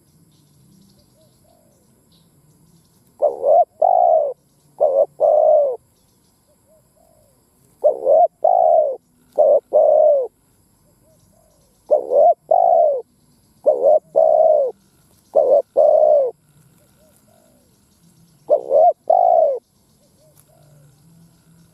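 Spotted dove cooing: phrases of two to four hollow low notes, repeated every four to five seconds with quiet gaps between.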